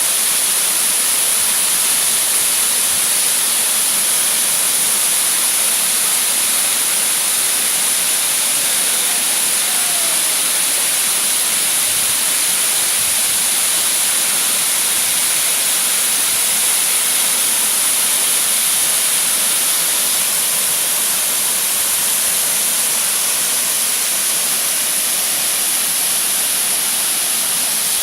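Waterfall rushing: a steady, even hiss of falling water, strongest in the high end.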